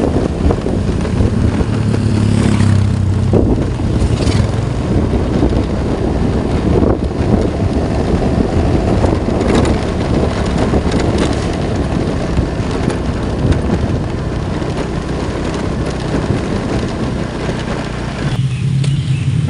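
A motor vehicle running on the move, with a dense, steady noisy rush. About 18 seconds in, the rush drops away and a steady low engine hum remains.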